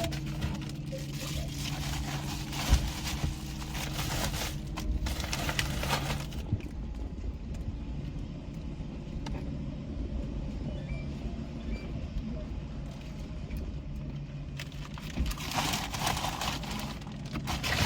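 Toyota Camry running, heard from inside the cabin as a steady low hum. Paper and packages rustle and crinkle over the first six seconds and again near the end as envelopes are handled.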